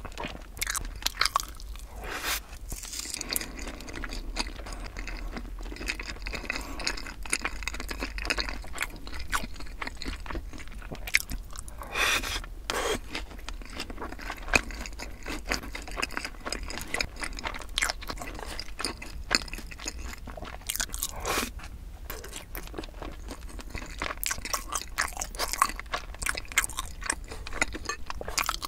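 Close-miked chewing and crunching of sauced Korean fried chicken (yangnyeom chicken), a steady run of short crackles and mouth sounds with a few louder bites.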